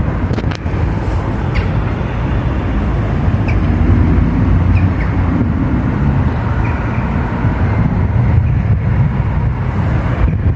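Train running past at close range: a loud, steady low rumble of the locomotive and wagons on the track, with a few faint short squeaks and clicks.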